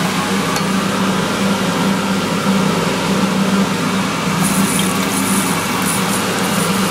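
Push-button hand dryer blowing: a loud, steady rush of air over a constant low motor hum.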